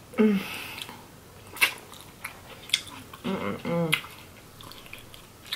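Close-miked eating of crab legs: sharp cracks and bites as the shell is broken and the meat is pulled out, with a few short hummed vocal sounds near the start and about three seconds in.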